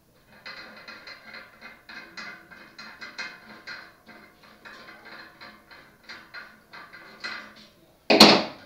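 Threaded steel bicycle axle being turned through the hub and its nut, giving a busy run of small metal clicks and scrapes, then a single loud sharp clatter near the end.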